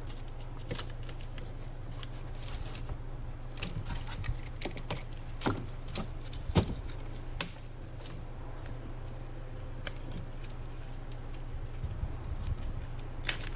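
Scattered light clicks and taps of small parts and packaging being handled, over a steady low hum, with two sharper knocks about halfway through.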